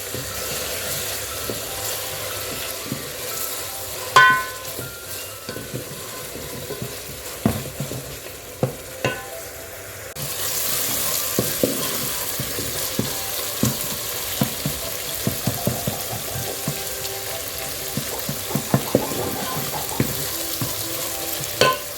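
Onion, tomato and green pepper sizzling in oil in a pan while a spoon stirs and knocks against it. A ringing metal clink about four seconds in; the sizzle turns louder about halfway through.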